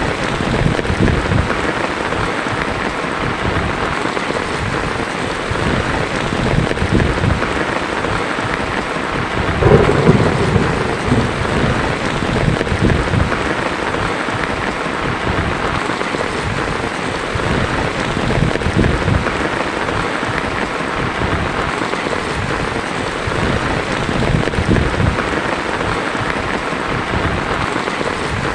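Heavy rain pattering steadily on a tin roof, with thunder rumbling low underneath; the loudest roll of thunder comes about ten seconds in.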